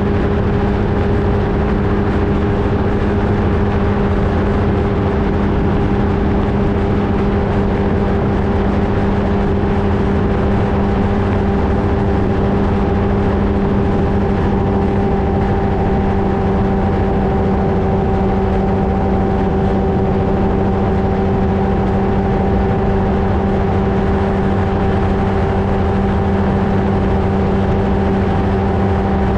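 Flightstar II ultralight aircraft's engine and propeller running at a constant setting, a steady drone with an unchanging pitch, picked up by a camera mounted on the aircraft.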